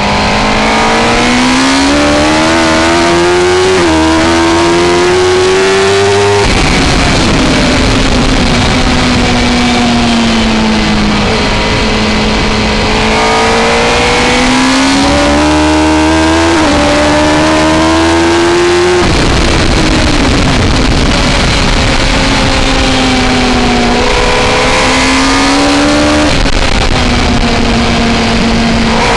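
Suzuki GSX-R1000 K3's inline-four engine under hard racing throttle: the pitch climbs with a quick upshift about four seconds in, then the throttle shuts off and the pitch falls as the bike slows. It pulls hard again with another upshift, shuts off once more, and runs at varying part throttle through the last stretch.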